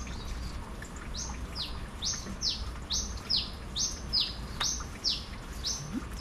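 A bird calling over and over from a little over a second in. Each phrase is a short rising whistle followed by a falling one, repeated about once a second.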